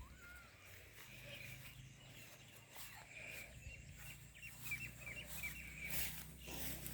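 Faint bird chirps in open farmland, with a quick run of short calls a few seconds in. A few soft knocks come near the end.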